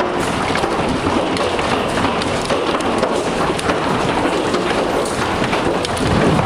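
Heavy storm precipitation, most likely hail, pelting hard surfaces: a loud, dense, steady downpour noise full of sharp impact ticks, which cuts off suddenly at the end.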